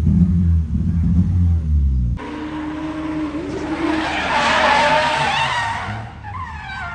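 A car engine runs close by with a steady low drone. After an abrupt cut about two seconds in, a drifting car slides by, its tyres squealing over its engine note; the squeal swells and then fades out about six seconds in.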